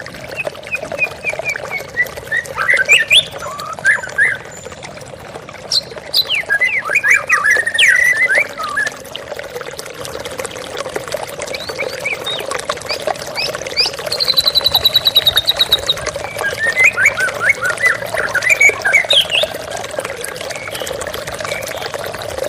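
White-rumped shama (murai batu) singing phrases of quick whistled, gliding notes, with a fast high trill in the middle, over the steady splashing of a waterfall.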